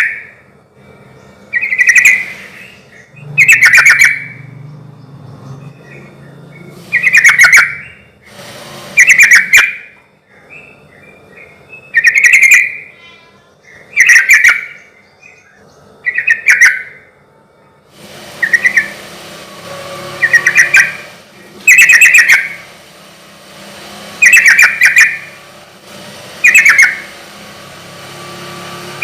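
Sooty-headed bulbul (trucukan) in full song, its short, loud phrases repeated about every two seconds.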